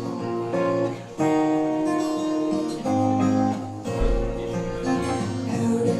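Instrumental music led by strummed acoustic guitar chords over a steady bass line, with no voice; the chords change every second or so.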